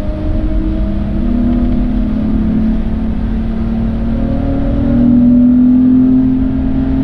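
Car engine pulling under acceleration, its pitch slowly climbing over a steady noisy rush. It grows louder about five seconds in.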